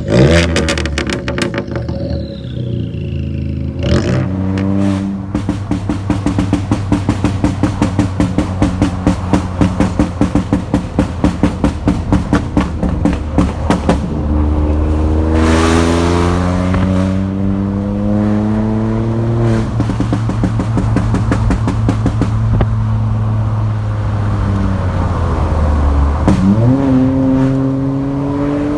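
Ford Fiesta 1.0 EcoBoost three-cylinder turbo engine through a straight-pipe, decat exhaust, revved in repeated blips with a longer climb around the middle. Between revs it crackles and pops rapidly on the overrun, the work of its pop-and-bang tune.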